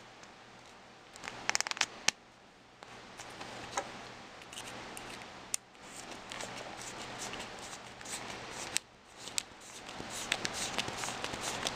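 Small plastic and metal RC truck suspension parts being handled and fitted by hand, giving light clicks and rattles, with a quick cluster of clicks a little over a second in and single sharp clicks later.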